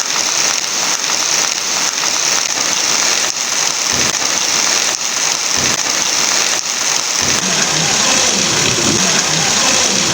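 Heavy rain falling steadily, a dense even hiss. From about seven seconds in, a low rumble joins it.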